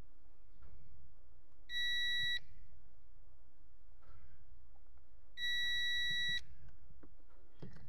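Multimeter continuity beeper sounding twice, each a steady high beep under a second long, about four seconds apart. The probes are across a car fuse, and the beep shows continuity, so the fuse is intact.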